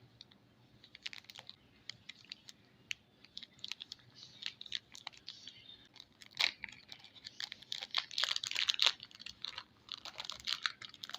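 Soap packaging being unwrapped: a dense, irregular crinkling and crackling with sharp little clicks, loudest in a few handfuls past the middle.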